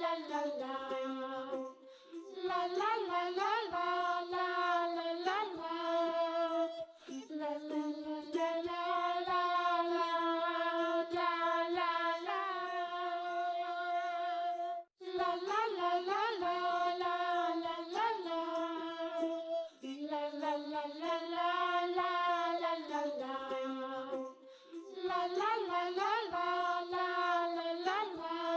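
Background children's song: a high, childlike voice singing a simple repeating melody in phrases of a few seconds.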